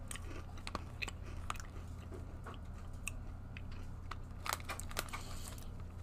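A person chewing small, dry, bagel-chip-like cookies called galletas maduritas: sharp crunches come irregularly, with a few louder ones about four and a half seconds in.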